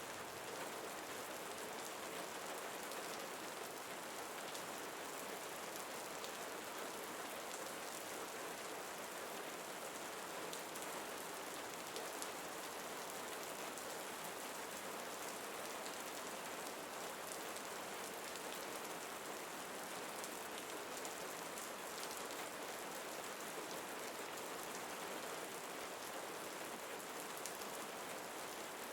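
Steady rain falling on a surface, with fine drop patter, mixed with brown noise as one even, unbroken hiss.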